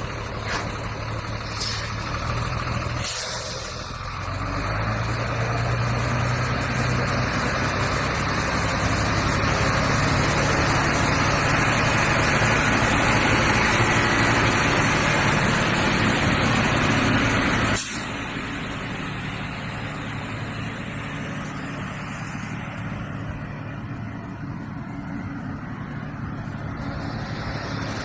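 Heavy diesel dump truck engine running and growing louder over several seconds, with a brief hiss about three seconds in. About eighteen seconds in the sound drops abruptly and runs on at a lower, steady level.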